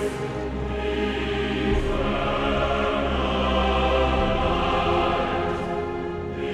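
A military band playing a slow hymn in long, sustained chords over a steady bass.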